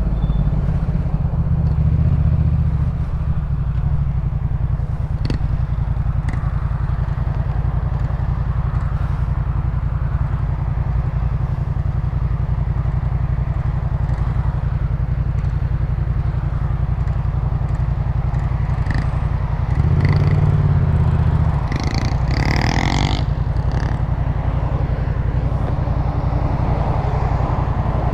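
Yamaha MT-07's parallel-twin engine running through a Jeskap K4 full aftermarket exhaust, with a steady deep note that swells louder briefly about twenty seconds in. A short higher-pitched sound follows about two seconds later.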